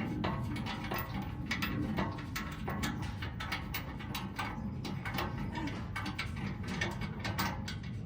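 A 15 mm socket ratchet clicking in a steady run as it backs out the skid plate bolts.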